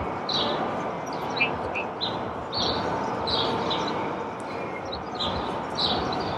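Small birds chirping in short, repeated calls over a steady background rumble of noise.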